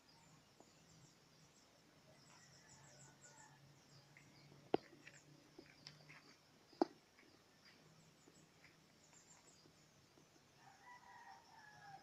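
Faint outdoor ambience of distant birds calling, with two sharp clicks about two seconds apart midway through.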